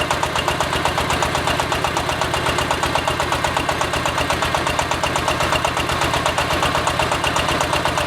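Diesel engine of a hydraulic water well drilling rig running steadily, with a fast, even pulse.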